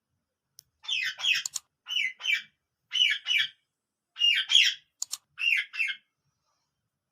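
Parrot giving a series of short, squawky calls, mostly in quick pairs, for about five seconds.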